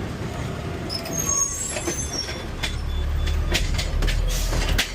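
Garbage truck at work collecting a trash can: high metallic squeals from about a second in, then a series of sharp clanks and knocks, with a heavy low rumble near the end.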